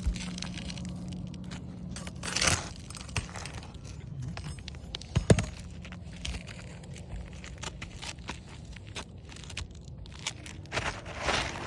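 Asphalt roof shingles being worked by hand and with a roofing snake: scattered scraping, crunching and clicks, with brief rustling scrapes about two and a half seconds in and near the end, and one sharp knock about five seconds in.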